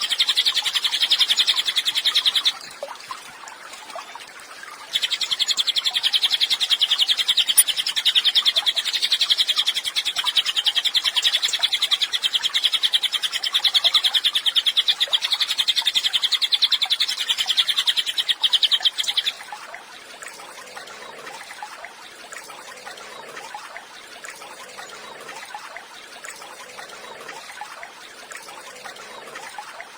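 Cililin songbird singing a long, very fast high-pitched trill, breaking off briefly near the start, then running for about fourteen seconds more before stopping abruptly, leaving only faint background sound.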